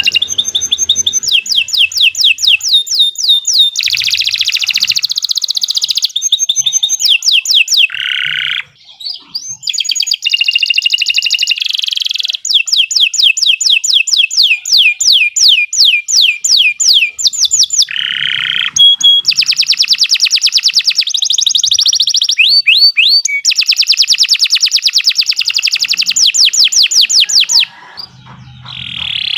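Domestic canary singing a long, vigorous song of fast repeated trills and rolls, switching to a new phrase every few seconds, with short pauses about eight seconds in and near the end.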